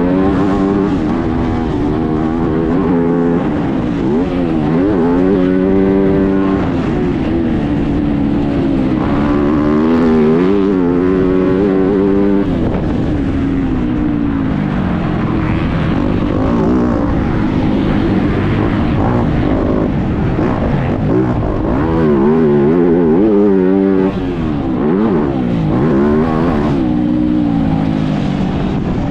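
Motocross bike engine at race pace, its pitch climbing and dropping again and again as the throttle opens and closes, heard up close from an onboard camera.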